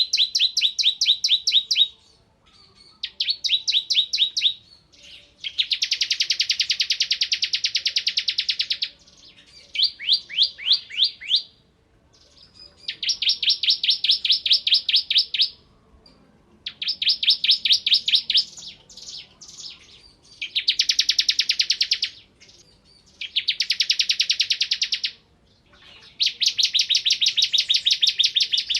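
Bar-winged prinia (ciblek kristal) singing in bouts of rapid, machine-gun-like trills (the 'ngebren' style), about nine phrases each one to three seconds long, separated by short pauses.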